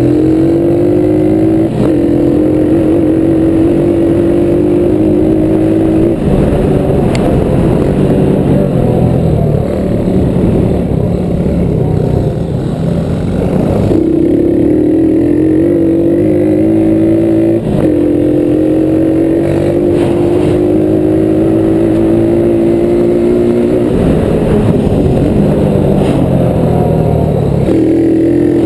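Small single-cylinder engine of a Honda ATC 70 three-wheeler accelerating hard through the gears. The pitch climbs, drops back sharply at each shift and climbs again. It eases off about six seconds in, then pulls up through the gears again from about fourteen seconds.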